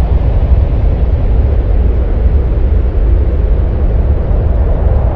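Steady deep rumbling noise with no pitch, heaviest in the bass, presented as the sound of the planet Mars as recorded by a space probe.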